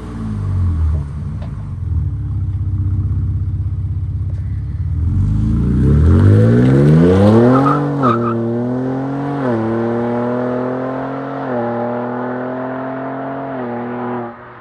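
Ford Ranger Raptor's twin-turbo V6 engine and exhaust: the revs fall away, then the engine accelerates hard and shifts up through the gears, the pitch dropping at each of about four upshifts and climbing again between them.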